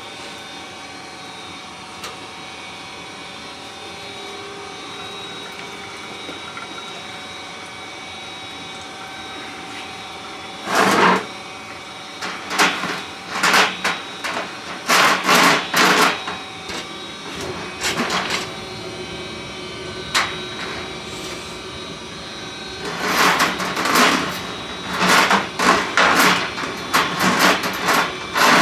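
Drain-cleaning cable machine running with a steady motor hum. From about ten seconds in come loud, irregular bursts of clattering as the snake cable works down the main line.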